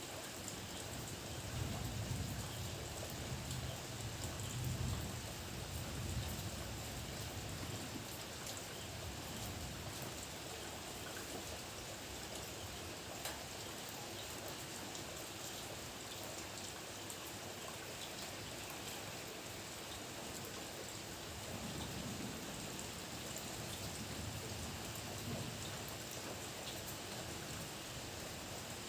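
Steady rain falling, with low rumbles of thunder swelling up in the first several seconds and again about three-quarters of the way through.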